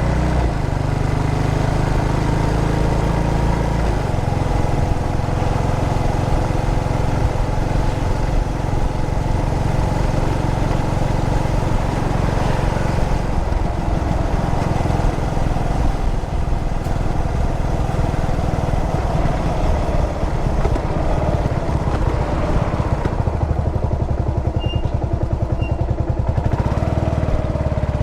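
Yamaha SR400's single-cylinder carbureted engine running steadily, its note shifting a few times as the revs change.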